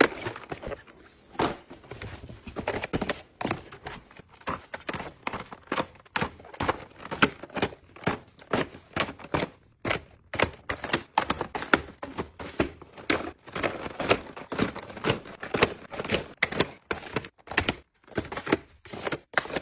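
A rapid, irregular series of sharp taps and clicks, several a second, with some crinkling: objects being handled.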